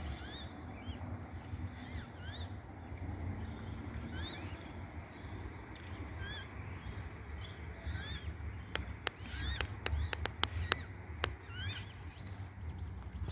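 High begging calls of water-bird chicks: short chirps that rise then fall, repeated every second or so, calling because they are hungry. A few sharp clicks come about nine to eleven seconds in, over a steady low rumble.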